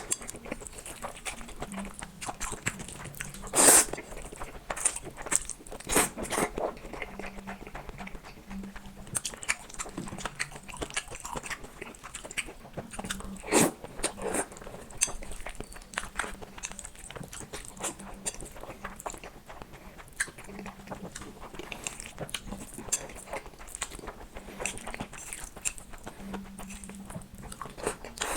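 Close-miked eating of black noodles and fried eggs: a steady run of short chewing and biting sounds, with two louder ones about four and fourteen seconds in.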